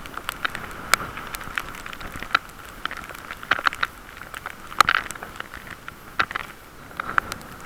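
Muffled wind noise and ride noise picked up through a camera's waterproof case on a moving bicycle: a steady hiss with irregular crackles and taps, the loudest about five seconds in.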